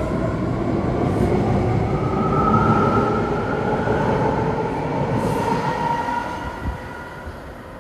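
Ten-car BART Fleet of the Future electric train pulling out of the station. Its drive makes a whine of several tones that rise in pitch as the train speeds up, and the sound fades as it moves away near the end.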